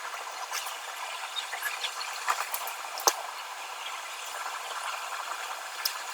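Small clicks and taps of parts and tools being handled on an electronics workbench over a steady hiss, with one sharp click about three seconds in.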